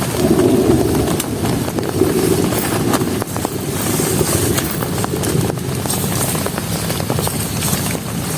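Heavy rain falling, a dense patter of sharp drop impacts over a low rumble that swells about half a second in and again around two seconds in.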